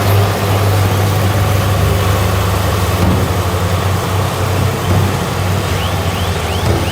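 Heavy diesel earthmoving machinery running steadily with a deep, even engine note. Near the end a quick series of short, high, squeaky chirps starts up.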